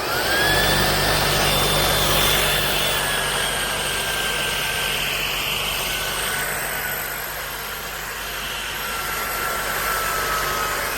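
Shark cordless stick vacuum switched on in regular suction mode: its motor spins up with a rising whine, then runs steadily, the high whine drifting slowly lower over a rush of air and a low hum. It is failing to pick up pieces of styrofoam, which tumble under the brush roll.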